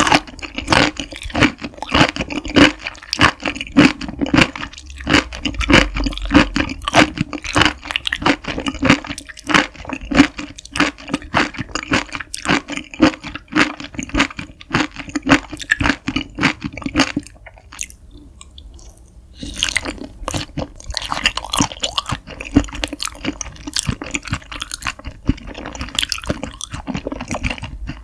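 Close-miked wet chewing of raw beef offal: dense mouth smacks and squishy, slightly crunchy clicks, with a short lull about two-thirds of the way through.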